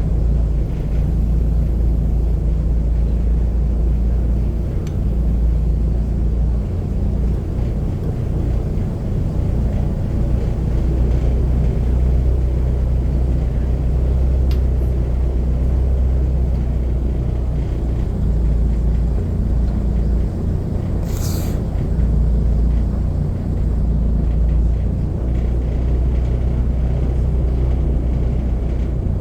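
Airboat's engine and propeller running steadily under way, a loud, constant low rumble. A brief hiss comes about twenty seconds in.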